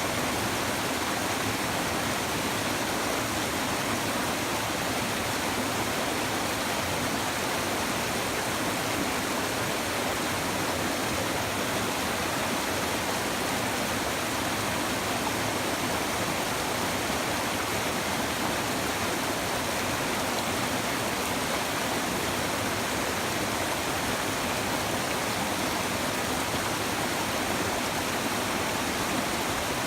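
A river's shallow water babbling over stones, a steady rushing murmur that does not change.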